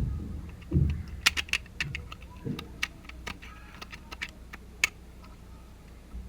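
Irregular light clicks and taps, several to a second in places, with a couple of duller knocks early on.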